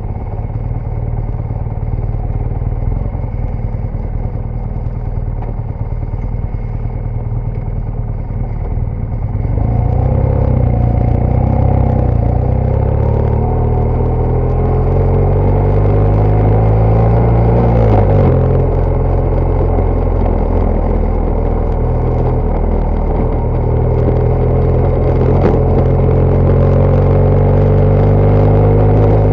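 BMW GS Adventure motorcycle's flat-twin engine running at low revs, then getting louder about ten seconds in and climbing in pitch as it accelerates. Around the middle the pitch drops briefly, then climbs steadily again toward the end.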